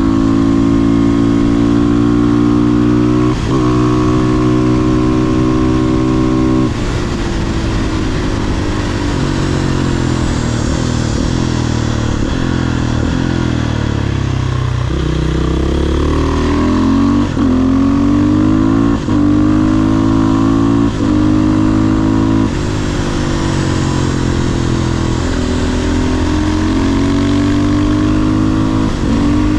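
500cc single-cylinder supermoto engine under way: running hard with brief breaks at upshifts, then falling in pitch as the bike slows on the engine from about a quarter of the way in, before revving up again through several quick shifts and settling to a steady pull near the end.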